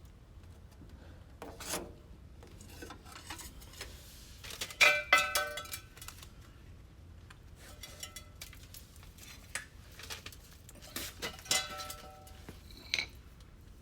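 Metal parts or tools clinking and clattering, with short ringing tones: a loud cluster about five seconds in, another around eleven to twelve seconds, and a single sharp clink near the end.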